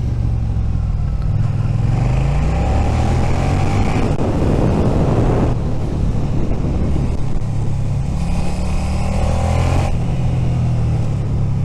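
Suzuki SV650's V-twin engine pulling the bike along, its revs climbing twice under acceleration. A rush of wind noise swells over the middle and again near the end.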